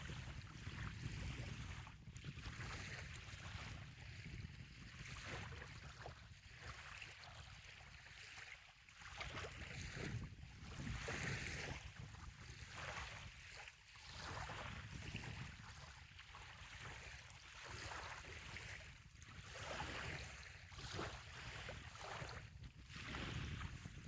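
Small waves lapping gently at a sandy bay shoreline, washing in and fading every couple of seconds, over a steady low rumble of wind on the microphone.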